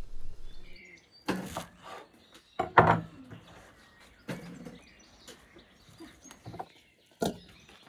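About five sharp knocks on a wooden cutting board, irregularly spaced, as bunches of fresh herbs are handled on it. Birds chirp faintly in the background.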